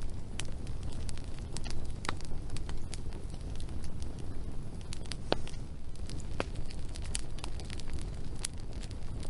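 Wood fire crackling, with sharp irregular pops over a low steady rumble.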